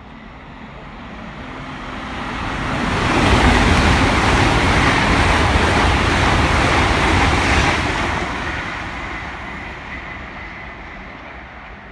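LNER electric passenger train passing: a rush of wheels on rails that builds over the first few seconds, is loudest for about five seconds, then fades away.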